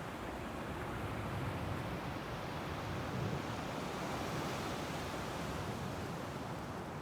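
Ocean surf washing on a beach: a steady rush of noise that swells and eases gently.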